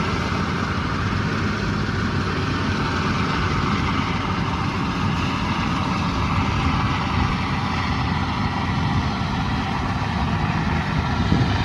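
Heavy diesel farm machinery running steadily, with no clear change in pitch.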